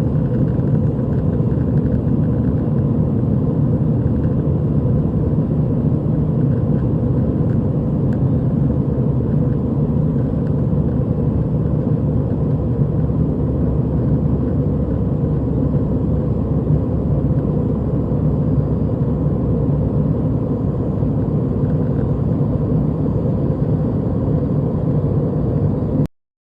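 Steady rumble of jet engines and airflow inside an Airbus A320's cabin in flight, heard from a rear window seat, with a faint steady whine above it. It cuts off suddenly near the end.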